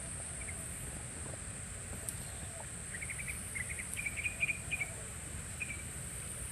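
Insects trilling steadily at a high pitch, with a small bird giving a quick run of short chirps in the middle.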